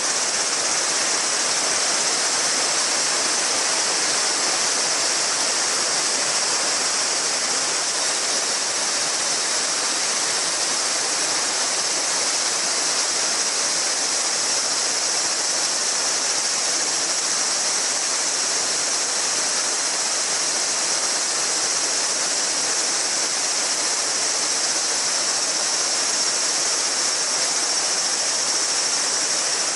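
A shallow mountain river babbling steadily over stones, with a dense summer cicada chorus as a steady high-pitched buzz over the water.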